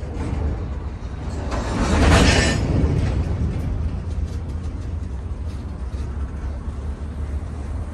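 Intermodal freight train rolling past as it picks up speed, with a steady low rumble from the cars. A louder rushing swell rises and fades about two seconds in.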